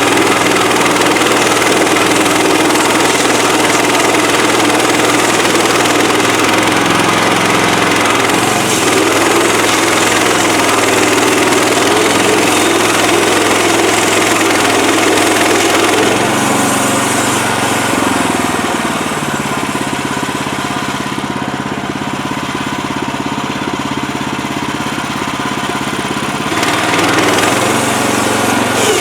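Gasoline engine of a portable bandsaw sawmill running steadily. About two-thirds of the way in, it softens and changes tone for several seconds, then comes back up near the end.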